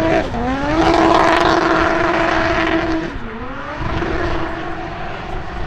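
Drift car engine revving up and held at steady high revs through a slide, with a hiss of tyre noise. About three seconds in the revs drop, dip, then climb and hold again.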